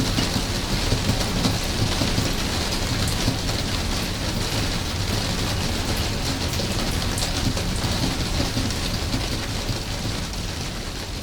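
Steady rain, with many close drops ticking over a low rumble; the level begins to fall near the end.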